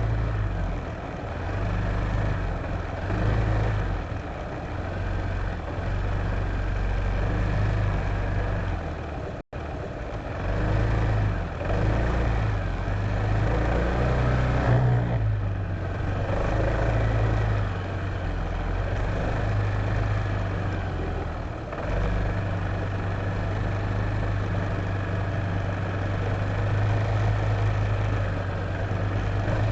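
Honda PCX150 scooter's single-cylinder four-stroke engine running under way, mixed with wind rush, its note swelling and easing as the throttle changes. The sound cuts out for an instant about nine and a half seconds in.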